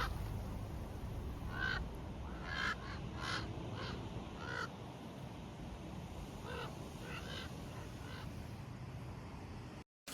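Crows cawing outdoors: about ten short, harsh caws in loose groups, over a low steady rumble.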